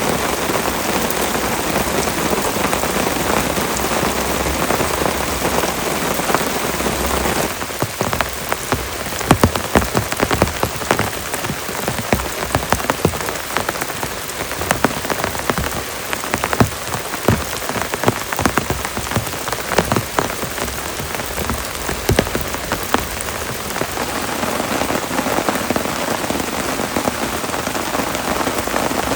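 Heavy rain falling steadily. From about a quarter of the way in until near the end, many sharp, separate drop hits stand out close by over the downpour, then the sound evens out again.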